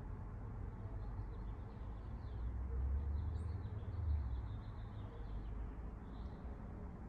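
Small birds chirping faintly in quick, repeated high notes over a low steady rumble.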